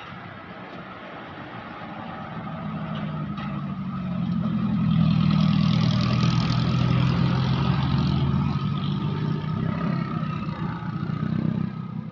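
A motor vehicle's engine running under load, growing louder as it comes closer, staying loud for several seconds, then fading away near the end.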